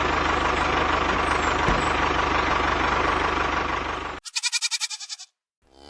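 Tractor engine running steadily with a low, rapid chug, cutting off abruptly about four seconds in. A short wavering, pulsing call of about a second follows.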